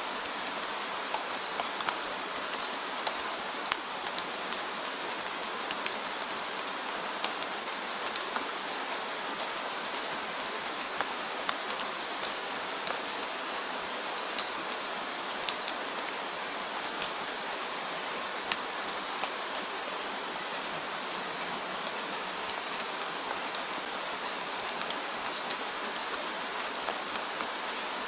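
Steady rain falling, with a continuous hiss and many individual drops landing as sharp ticks scattered throughout.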